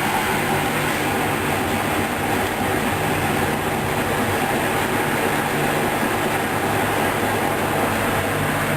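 Hoover DYN 10124 DP front-loading washing machine on its third intermediate spin, the drum spinning at speed with a steady loud whirr and a low hum that swells and fades.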